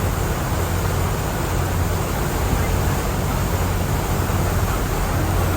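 Steady low drone of a cruise boat's engines under way, mixed with an even rush of wind and water.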